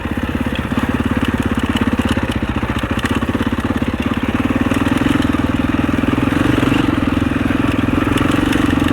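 Husaberg 650 single-cylinder four-stroke dirt bike engine running steadily under load on a trail ride, its firing pulses fast and even, getting a little louder about halfway through.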